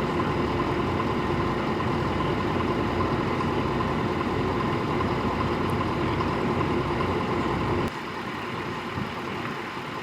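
Vehicle engine idling steadily, with a steady hum in it; near the end the sound cuts suddenly to a quieter rumble.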